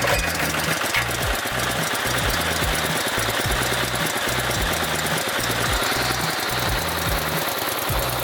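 Hot air balloon inflation fan running steadily, blowing cold air into the balloon envelope, with a rough engine-like drone under a wide rush of air.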